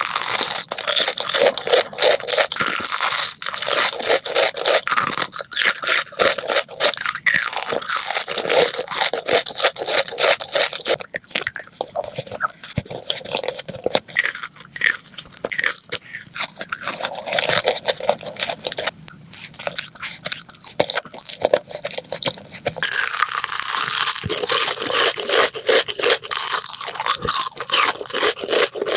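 Close-miked crunchy biting and chewing of candy: a dense, rapid run of crackly crunches with no pauses.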